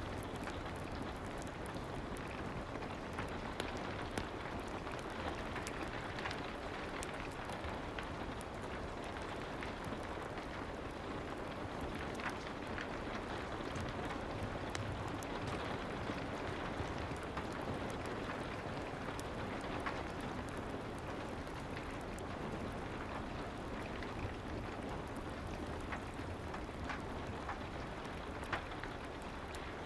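Steady soft rain ambience, with scattered small crackles of a fireplace throughout.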